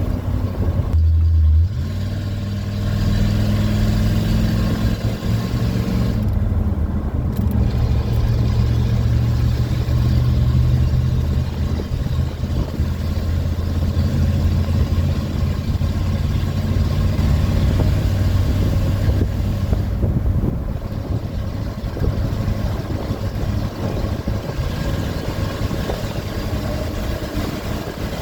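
Ford F-150 pickup's engine pulling hard under throttle while the truck is driven. It runs loud and steady, the pitch climbs about two seconds in, and it eases off a little about twenty seconds in.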